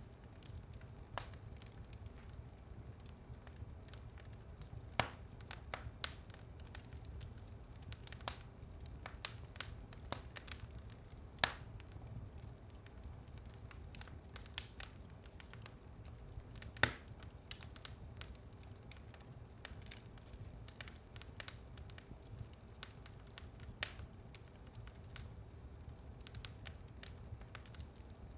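Wood fire in a fireplace burning, with a steady low rumble of flames and irregular crackles and pops, a few sharper snaps standing out about a second in, around 5, 8 and 11 seconds, and loudest near 17 seconds.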